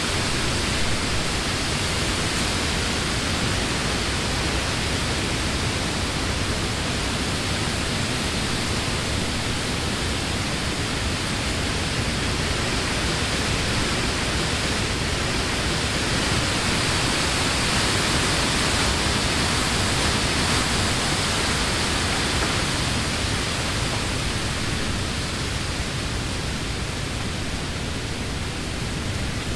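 Wind blowing through trees, a steady rush of leaves with a low rumble underneath, swelling a little midway and easing toward the end.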